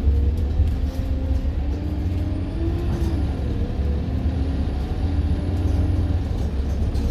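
Diesel city bus heard from on board, a steady low engine rumble with drivetrain tones shifting in pitch as it drives. A faint high whistle, typical of the bus's turbocharger, sounds through the middle of the stretch.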